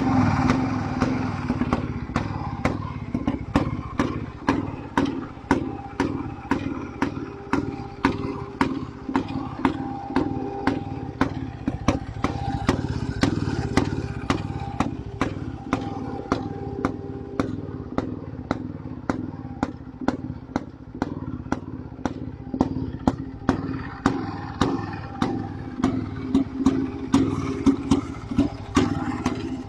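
IZh-49 motorcycle's single-cylinder two-stroke engine idling steadily at low revs, each firing stroke heard as a separate, even beat. It starts up at the very beginning.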